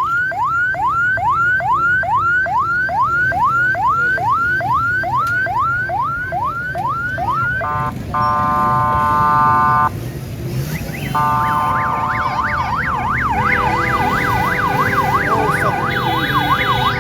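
Electronic siren cycling through its tones: a quick run of rising whoops, about two and a half a second, for most of the first eight seconds; then a steady blare for about two seconds; then, after a short break, a fast up-and-down warble over a steady tone.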